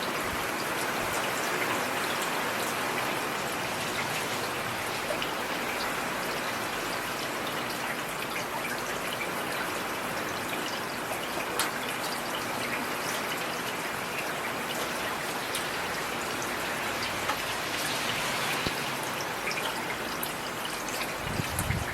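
Heavy rain falling steadily, with scattered individual drops pattering on surfaces.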